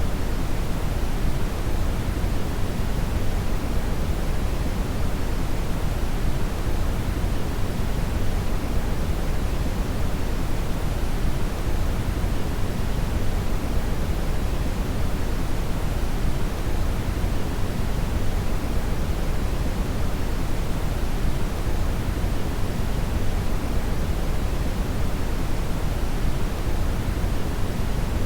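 Brown noise: a steady, even rushing hiss, heaviest in the low end and rolling off toward the highs, with no change over time.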